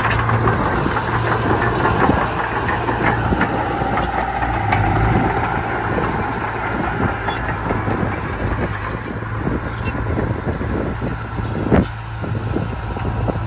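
Heavy diesel earthmoving machinery running steadily, with constant clattering and clanking over the engine drone and a brief whine a few seconds in. One sharp bang comes near the end.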